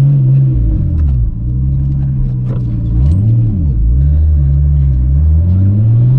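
Nissan Skyline GT-R R34's twin-turbo RB26DETT straight-six accelerating, its revs rising and falling a few times as gears change, then climbing steadily near the end.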